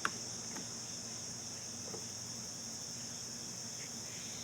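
Steady high-pitched insect chorus in the background, unbroken and even, with a few faint ticks.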